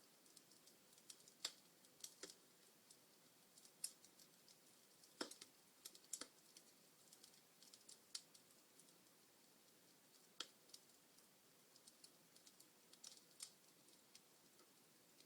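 Logs burning in a fireplace, crackling: faint, irregular sharp snaps and ticks over a soft hiss, with a few louder pops scattered through.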